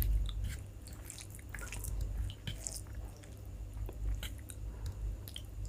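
A person chewing a mouthful of rice and curry close to the microphone: soft wet squishing and smacking with scattered small clicks.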